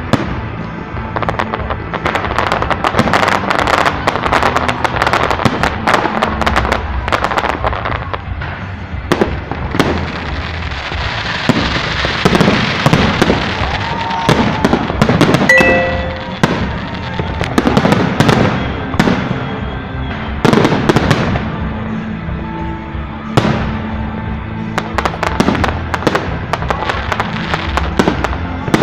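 Fireworks display: a rapid, irregular series of loud bangs, with a spell of dense crackling about halfway through. Music plays steadily underneath.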